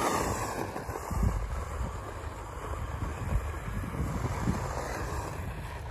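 Wind buffeting the microphone outdoors, a steady rushing noise with a few low thumps about a second in.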